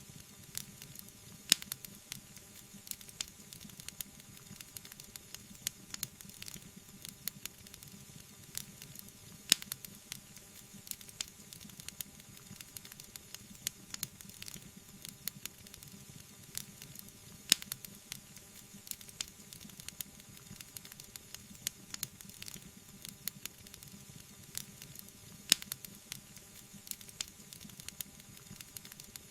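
Wood fire crackling, with a steady stream of small pops and ticks over a soft hiss, and a few louder, sharper pops about every eight seconds.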